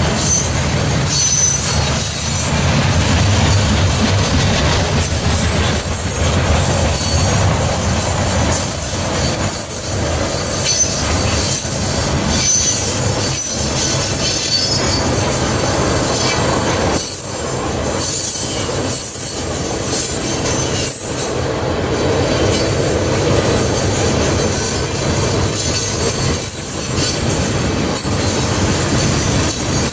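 Norfolk Southern train rolling past close by: a steady rumble and rattle of the cars on the rails, with high-pitched wheel squeal running over it.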